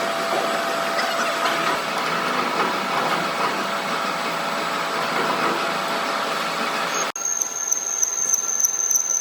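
Steady noise of metalworking machinery with a few constant tones running through it. About seven seconds in it cuts off abruptly and gives way to a different machine sound carrying a steady high-pitched whine.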